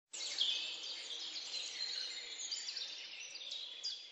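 Several small birds chirping together: a dense run of quick, high chirps, each sliding downward in pitch.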